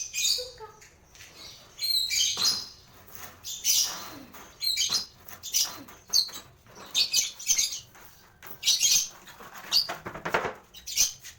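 Lovebirds calling: a busy run of short, high-pitched chirps and squawks in irregular bursts, one every half second or so.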